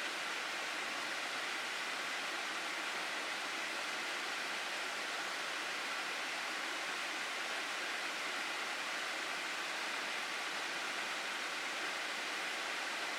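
Rushing water of a mountain gorge stream: a steady, unbroken roar of flowing water, brightest in the upper middle range, with no single splashes standing out.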